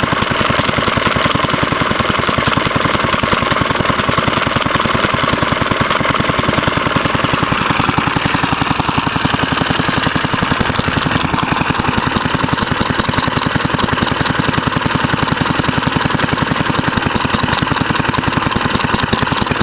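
Fairbanks Morse Z style D single-cylinder engine running at a steady speed, with a rapid, even firing beat through its muffler. About eight seconds in, its tone shifts slightly.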